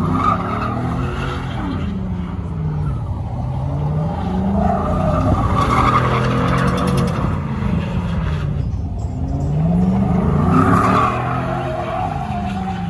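A vehicle's engine revving up and easing back several times, with tires squealing.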